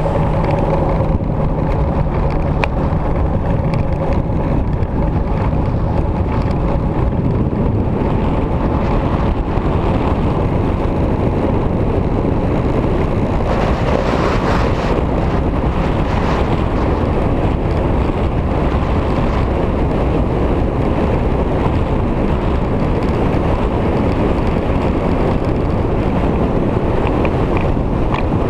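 Wind rushing over the microphone on a moving motorcycle, with the engine running underneath; a faint engine hum at the start fades within the first couple of seconds.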